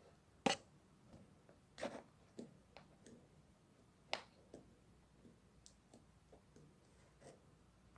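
Slime being squeezed and poked by hand, giving scattered sharp pops and small clicks. The loudest pop comes about half a second in, with others near two and four seconds, then softer ticks.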